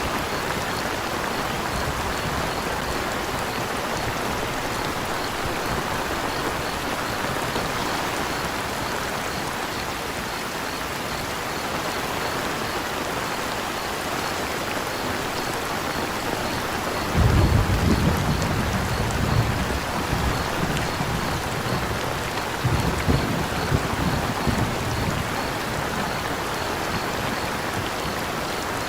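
Steady rain falling, with crickets chirping in an even, pulsing rhythm behind it. Thunder rumbles low a little over halfway through, and again more weakly a few seconds later.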